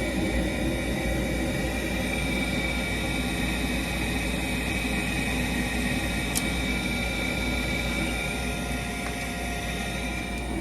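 Trane LP gas furnace running with a steady motor whir and a thin high whine, during a heating cycle in which its failed hot surface igniter does not light the burners.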